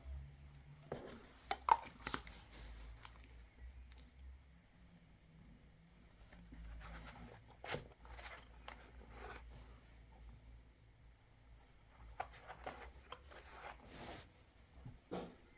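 Small handling sounds: scattered clicks, taps and brief rustling or scraping, with the sharpest clicks about two seconds in, over a faint low hum.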